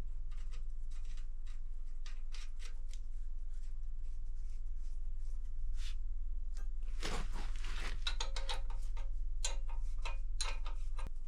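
Small clicks, taps and scrapes of metal parts and hand tools being handled, with a longer scrape about seven seconds in and a cluster of clicks after it, over a steady low hum.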